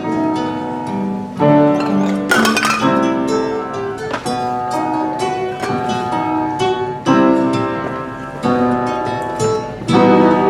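Live baroque instrumental ensemble music with plucked strings prominent, moving through held chords that change about every second.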